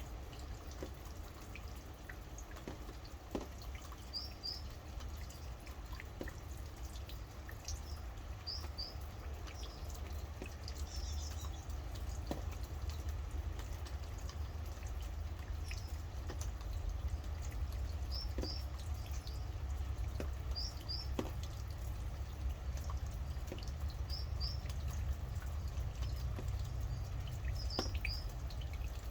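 Rain dripping and pattering with scattered drops, over a steady low rumble. A bird repeats a short, high two-note chirp every few seconds.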